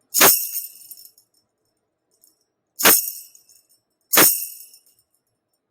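Tambourine struck sharply three times, about a second in, near the middle and soon after, each hit's jingles ringing briefly and dying away.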